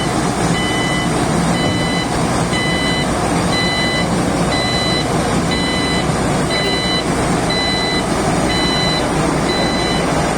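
Lovol FR375F excavator running, with its warning alarm giving a steady run of beeps, a little over one a second, over the machine's engine noise.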